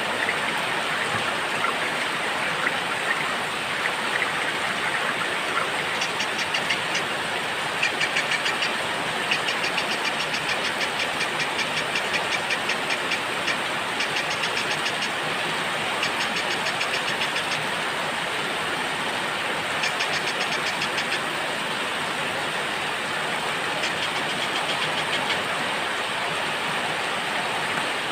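Steady heavy rain with small songbirds giving fast, high-pitched trills in several short bouts over it.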